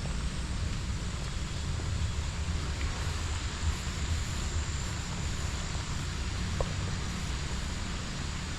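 Steady outdoor ambient noise: a low rumble under an even hiss, with no distinct events.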